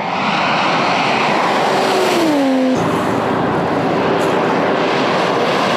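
A Toyota Chaser Tourer V's 1JZ-GTE turbocharged straight-six is held flat out on a top-speed run near 260 km/h, a loud engine note over wind rush. The note drops in pitch as the car passes about two seconds in, then cuts to another approach with a steady high engine note.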